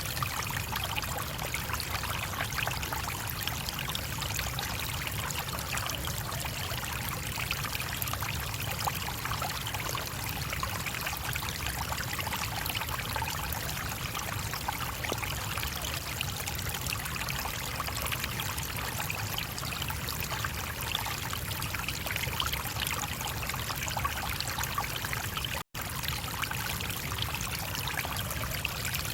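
A brook flowing steadily. The sound cuts out for an instant near the end.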